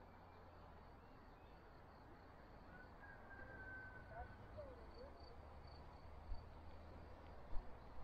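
Faint outdoor ambience with a low steady hum, a few distant bird calls about three to five seconds in, and a couple of soft knocks near the end.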